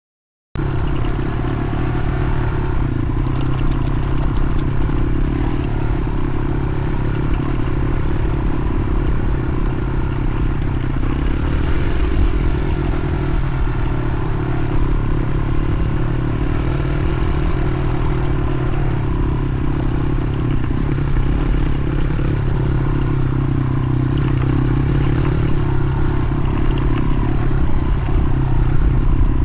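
1995 motorcycle engine running steadily at idle, with no revving.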